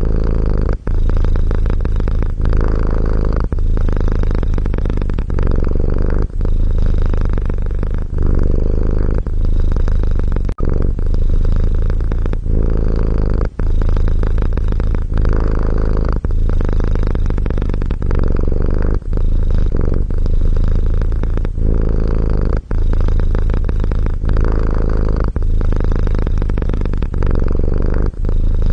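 Domestic cat purring in a steady, low rumble, broken by short breaks about every second and a half.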